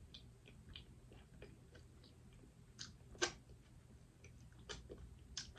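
Faint eating sounds of a person chewing seafood: scattered soft wet clicks and smacks, with one sharper click about three seconds in.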